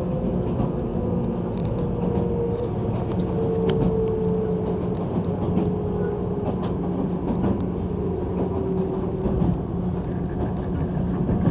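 JR 185 series electric train running, heard from inside the carriage: a steady rumble with a motor whine that drifts slightly lower in pitch.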